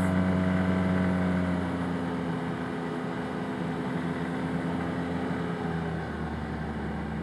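Engine of an Arctic Cat Wildcat Trail side-by-side UTV running steadily while riding. The engine eases off slightly after about a second, and its note drops lower around six seconds in.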